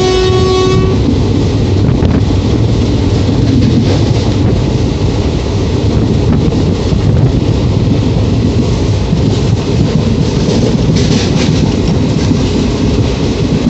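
Passenger coach of an Indian Railways express running at speed, heard from inside: a loud, steady rumble with the clickety-clack and rattle of the wheels. A brief steady high tone sounds at the very start, and the rattling grows sharper about eleven seconds in.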